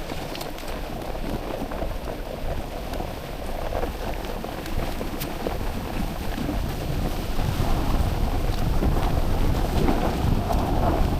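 Wind buffeting the microphone, a steady low rumbling noise with a few faint clicks, growing louder in the second half.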